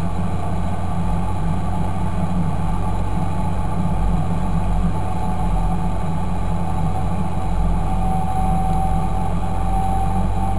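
Fendt 926 Favorit tractor's six-cylinder turbo diesel engine running steadily, with a thin steady whine that comes in about eight seconds in.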